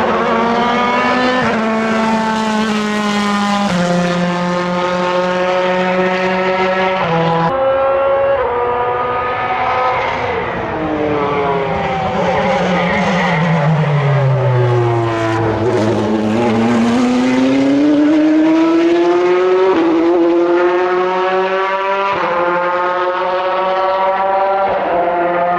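Corvette C8.R race car's V8 engine at full throttle, its pitch climbing through several quick upshifts, each with a sudden drop. Partway through the pitch falls smoothly for several seconds as the car slows, then it climbs through the gears again.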